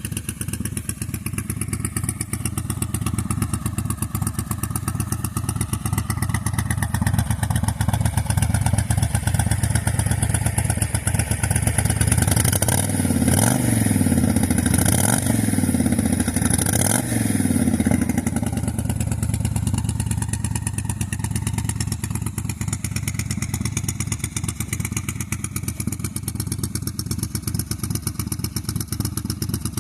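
1998 Honda VT1100 C3's V-twin engine idling through its debaffled stock exhaust, blipped three times about halfway through, each rev rising and falling back to idle.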